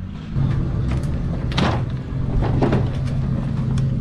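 The 900-horsepower BMW M3 E92 drift car's engine running steadily at low revs. Two short, sharper noises stand out over it about a second and a half and two and a half seconds in.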